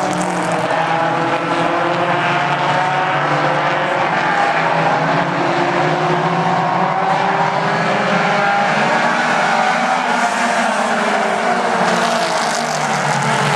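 A field of mini stock race cars running laps on an oval track: several engines at racing revs at once, their pitches rising and falling as the cars pass.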